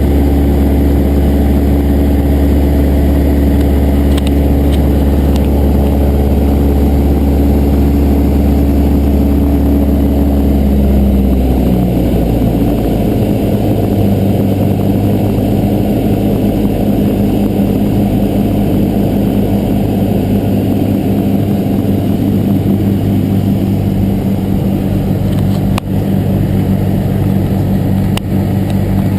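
Cessna 172 piston engine and propeller droning steadily, then dropping in pitch about eleven seconds in as power is pulled back, and running on steadily at the lower setting.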